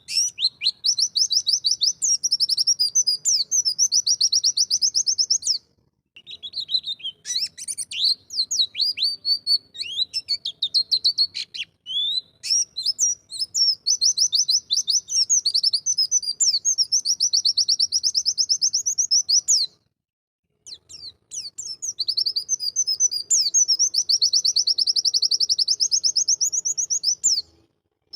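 White-eye (pleci) singing long, very fast chattering trills of rapidly repeated high notes. The song comes in several long phrases with short breaks between them.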